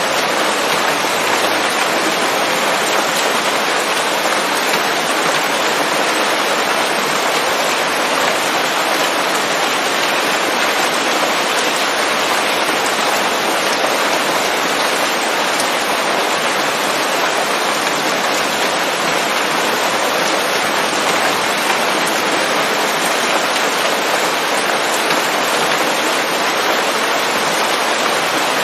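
Steady, dense rain falling on leaves, an even hiss of many drops with no thunder.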